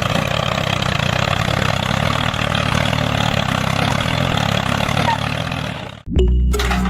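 Tractor engine running steadily at idle, cut off abruptly about six seconds in, followed by the start of music.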